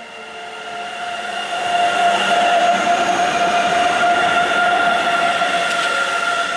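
Train passing through the station, growing louder over the first two seconds and then holding steady, with a continuous high whine over the rolling noise.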